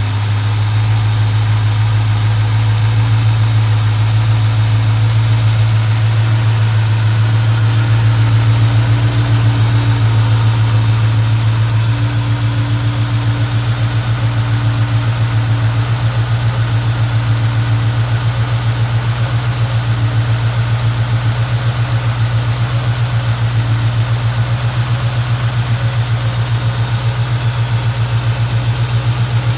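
1971 Mercedes-Benz 280SE 3.5's V8 idling steadily after a cold start, with an even low pulsing note.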